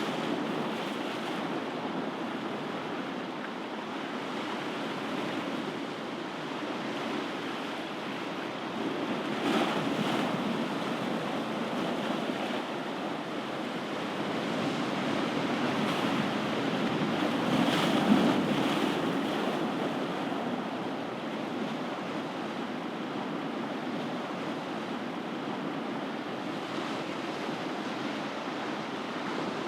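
Ocean waves breaking and washing on a shore, a continuous surf noise that swells with a wave about ten seconds in and again around eighteen seconds, where it is loudest, then settles back.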